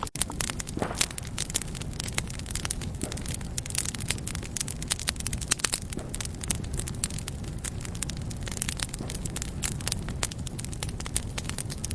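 Wood fire crackling in a fireplace: dense, irregular pops and snaps over a steady low rumble of the flames.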